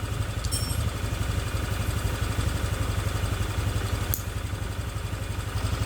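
Motorcycle engine idling steadily with an even low pulse, warmed up after starting. A couple of faint light clicks sound over it.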